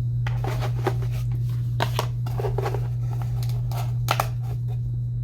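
Plastic false-eyelash packaging being handled, a run of irregular clicks and crinkles over a steady low hum.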